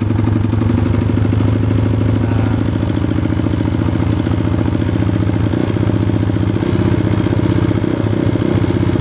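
Kawasaki KLX single-cylinder four-stroke engine running steadily at idle while the air screw on its freshly cleaned carburetor is opened to set the idle mixture. The pulse pattern shifts slightly past halfway as the setting changes.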